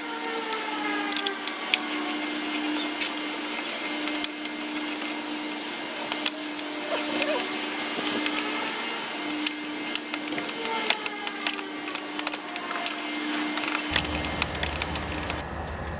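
Socket wrench on a 5/16 socket clicking in quick, uneven runs as screws on the air filter box are backed out, over a steady hum.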